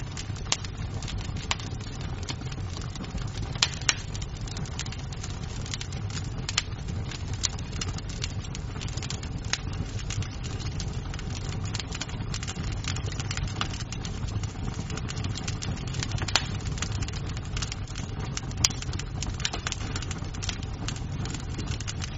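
Wood fire crackling in a fireplace: irregular snaps and pops of burning wood over a steady low rumble, with a few sharper, louder pops.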